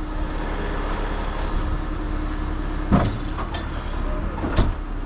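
Heavy diesel truck engine idling with a steady low rumble, with two sharp knocks about three seconds in and again near the end.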